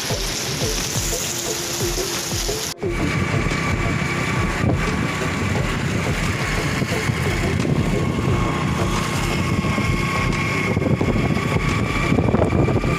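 Rain falling, an even hiss, for about the first three seconds. It cuts off suddenly to a low rumble with a steady high whine whose source is unclear.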